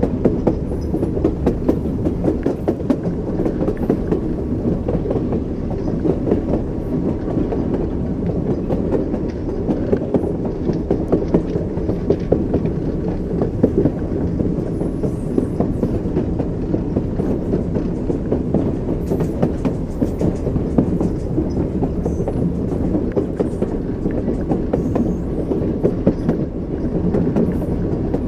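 Train wheels clattering over rail joints with a steady low rumble, as from a moving railway carriage.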